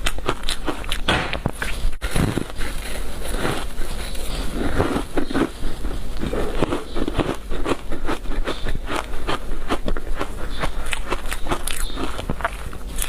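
Frozen matcha powder ice being bitten and chewed up close: a dense, irregular run of sharp crackly crunches.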